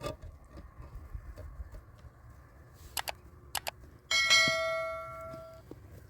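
A few sharp taps, then a single metallic clang about two-thirds of the way in that rings on and fades over a second and a half, like a metal tool or piece of metal struck during block-laying work.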